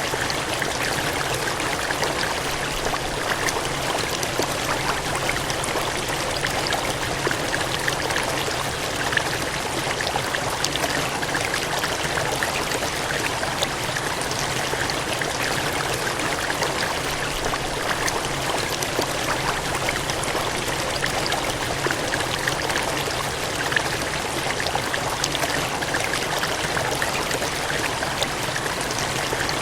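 Water gushing and splashing in a steady, unbroken rush, like a stream or small cascade.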